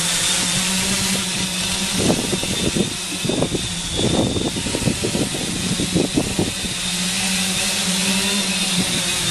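Aerial drone's motors and propellers humming steadily with a high whine. For a few seconds in the middle the hum gives way to irregular low buffeting, then returns.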